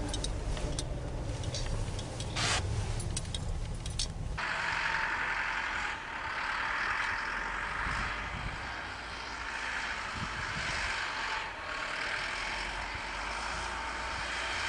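Low rumble of a car heard from inside the cabin, with a few clicks. About four seconds in it switches abruptly to a steady hissing noise.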